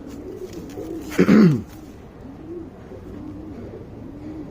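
Domestic pigeons cooing in a run of short rising-and-falling coos, with one louder sound that falls in pitch about a second in.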